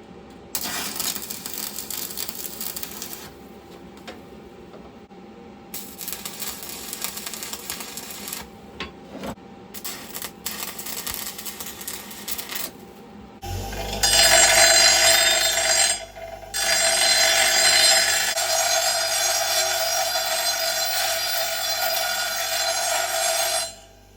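Electric welding arc crackling and buzzing in bursts while a small steel bracket is welded: a couple of shorter welds of a few seconds each, then a longer, louder run of about ten seconds in the second half with a brief break in it.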